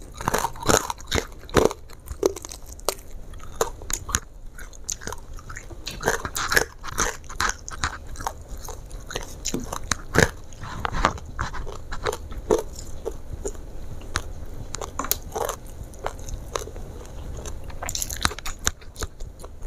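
Close-miked chewing and crunching of crispy fried chicken with sambal, with sharp crunches on and off. Near the end comes a crisp bite into a raw vegetable.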